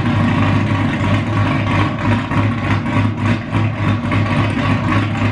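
Pontiac G8 GT's 6.0-litre V8, fitted with a Cam Motion Titan 2 camshaft, longtube headers and a straight-pipe exhaust, idling after its first start on the new cam. It runs with an uneven, pulsing note.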